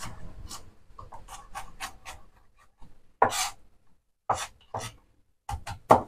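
Knife chopping garlic: a quick run of light strokes, then several sharper, louder chops in the second half.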